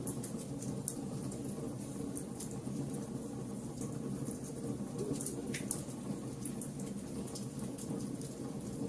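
A fire burning: a steady low rumble with scattered sharp crackles and pops throughout.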